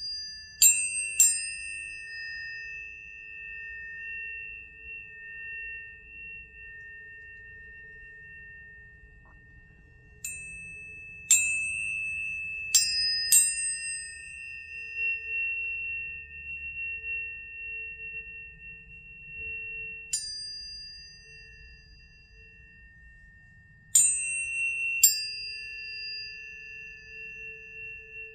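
Planetary tuning forks struck one after another: groups of three or four strikes near the start and again around ten seconds in, a single strike about twenty seconds in, and two more near the end. Each strike is a sharp ping with a quick bright shimmer, then pure high tones that ring on and slowly fade between strikes.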